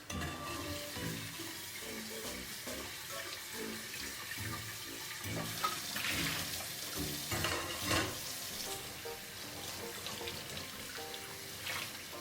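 Water running from a tap into a sink, starting and stopping abruptly, over soft background music.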